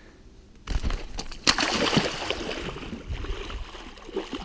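Water splashing and sloshing as a released zander is let back into the river, starting suddenly about a second in, loudest soon after, then settling.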